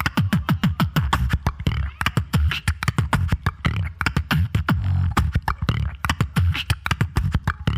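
Beatbox beat built on a loop station: rapid snare and hi-hat clicks over repeated bass kicks that fall in pitch, with no pause.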